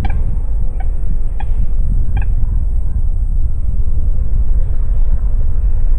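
Wind rumbling on the microphone, with a bird giving four short, harsh, evenly spaced calls in the first two and a half seconds, then wind alone.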